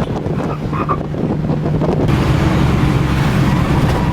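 An engine running steadily, with wind buffeting the microphone; the rushing noise grows louder about two seconds in.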